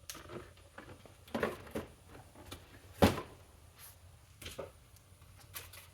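Vacuum cleaners being handled and set down: a series of short knocks and clunks with light handling noise between, the loudest clunk about three seconds in.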